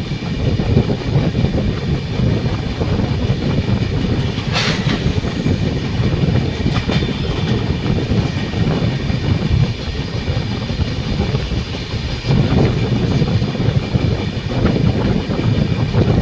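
Passenger train rolling past close by: a steady rumble of coaches with wheels clattering over the rail joints.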